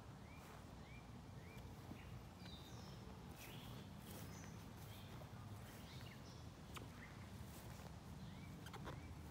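Faint backyard birds chirping: short rising calls in quick runs of three or four, near the start and again near the end, with a few soft clicks over a low outdoor rumble.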